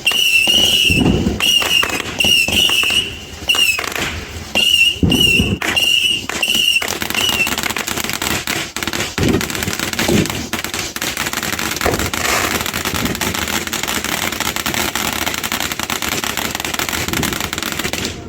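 Fireworks going off. For the first seven seconds or so there is a quick run of short warbling whistles, with a few low booms. Then dense crackling runs on and stops abruptly at the end.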